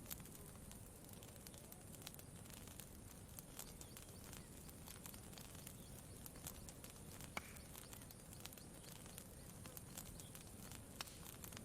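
Campfire crackling faintly, with scattered small pops and one sharper pop about seven seconds in, over a low steady rumble.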